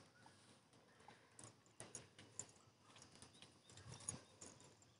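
Faint, irregular popping and crackling of a tomato-onion masala frying and bubbling in oil in a pan.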